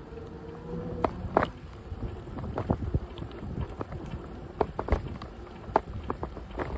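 Bicycle riding over a path: a low tyre rumble with irregular sharp clicks and rattles from the bike over bumps. A faint whine rises slightly and stops about a second in.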